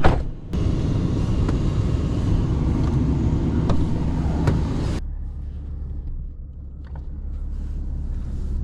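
Truck engine running steadily at idle, with a sharp knock at the very start. About five seconds in, the higher noise cuts off suddenly and the engine hum goes on muffled.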